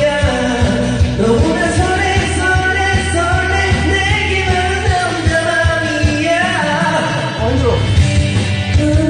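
Karaoke: a pop-rock backing track with a steady beat, with a voice singing along.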